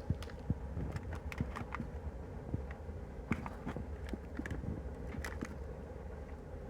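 A person chewing a bite of a chewy banana oat granola bar: irregular small mouth clicks over a steady low hum.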